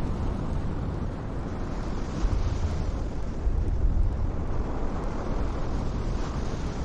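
Wind buffeting the microphone over the rush of big surf: a steady low rumble that swells briefly in the middle.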